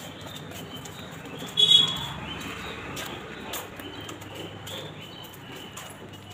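Birds chirping in short high calls, with one louder call about a second and a half in.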